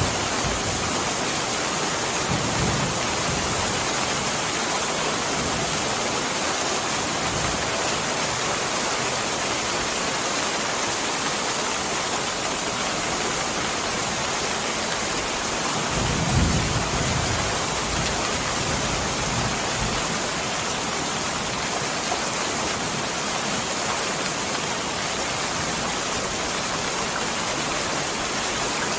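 Steady heavy rain falling, with low rolls of distant thunder, a faint one a couple of seconds in and a stronger one about halfway through.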